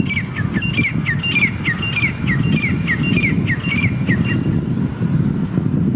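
Express train rolling along the track with a steady low rumble. Over it, a bird calls a quick series of short descending chirps, about three a second, which stop a little after four seconds in.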